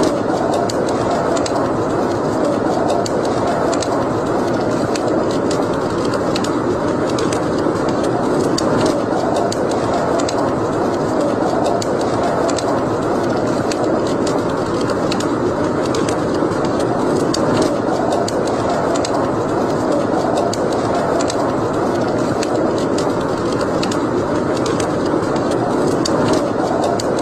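Wood fire burning in a fireplace: a steady rushing hiss with frequent small crackles and pops.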